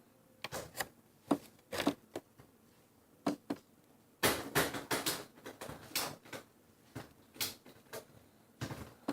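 A sheet of paper being handled and folded: irregular short crinkles and taps, thickest about four to five seconds in.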